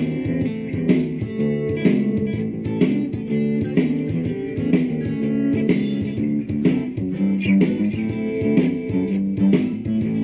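Lava ME 4 guitar playing a classic blues loop through effects pedals, with plucked notes over a repeating backing part.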